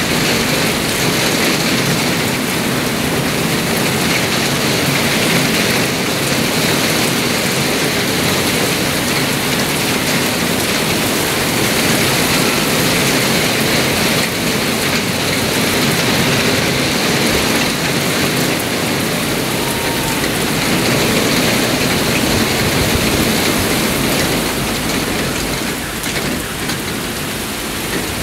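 Heavy thunderstorm downpour: a steady, dense hiss of rain pouring down and hitting the ground and parked cars, a little quieter near the end.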